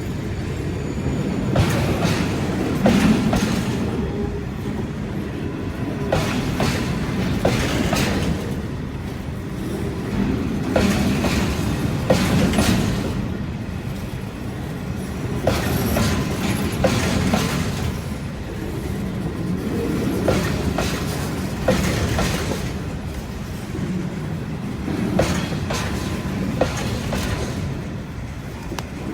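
Freight train wagons rolling slowly over a level crossing: a steady rumble that swells every few seconds, with wheels clacking over rail joints in repeated pairs and groups.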